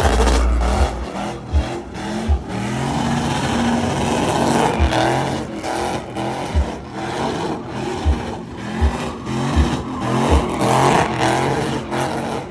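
Truck engine revving hard, its pitch swinging up and down over and over as it is driven around. Strong low thumps come through at irregular intervals.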